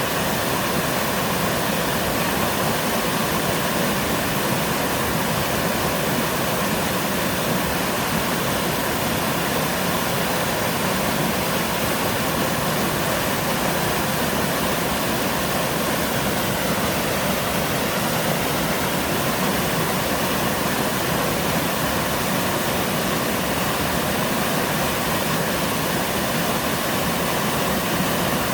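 Mountain-stream waterfall, a low sloping cascade with water sliding and pouring over rock, giving a steady, unbroken rush.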